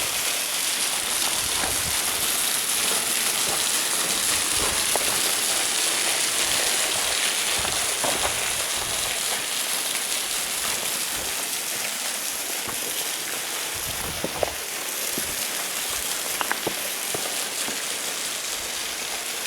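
Waterfall about 37 feet tall, running at low flow, its falling water making a steady, even hiss.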